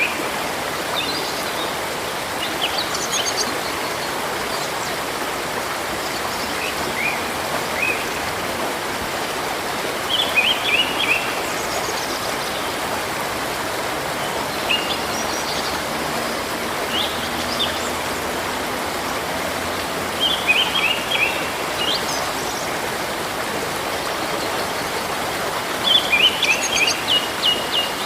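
Water of a river or stream rushing steadily, with small birds chirping in short runs of quick high notes every few seconds, the busiest run near the end.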